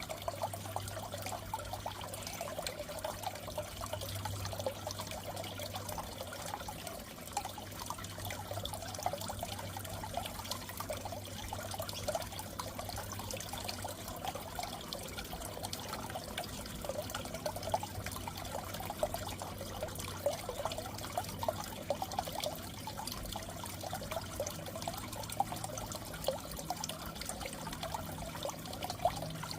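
Aquarium water trickling and bubbling steadily, with a low steady hum underneath.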